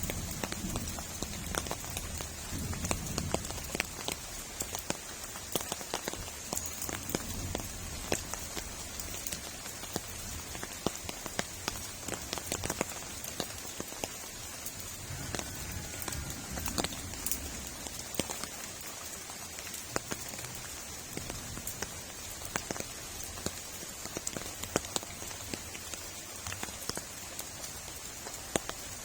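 Heavy rain falling steadily, with many individual drops striking hard close by.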